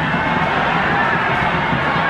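Football stadium crowd noise, a steady loud wash of many voices.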